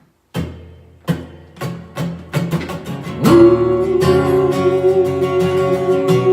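Taylor acoustic guitar: a chord struck about a third of a second in, then chords picked roughly every half second, settling into fuller, steady strumming from about three seconds in.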